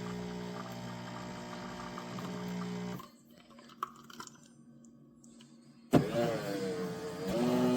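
Café Affetto automatic espresso machine's pump humming steadily while brewing, cutting off about three seconds in. A few faint clicks follow. About six seconds in the machine starts up again with a sudden onset and a wavering hum that settles into a steady drone.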